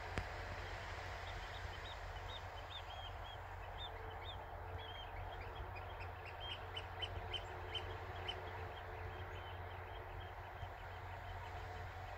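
Bird calls: a long, rapid series of short high notes, with a steady low hum underneath.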